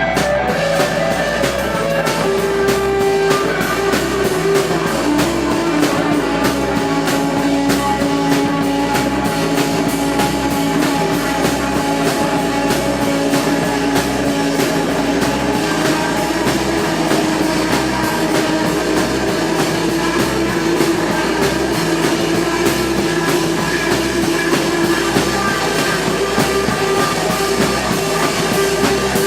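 Live psychedelic rock band playing an instrumental passage: a driving, repetitive drum beat under droning electric guitar and sustained keyboard tones.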